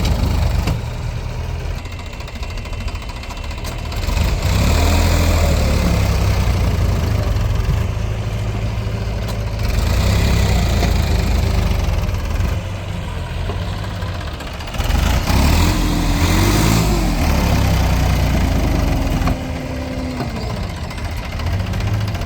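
Vehicle engine running under load, revving up in surges about four seconds in and again around fifteen seconds in, with the pitch rising and falling in between.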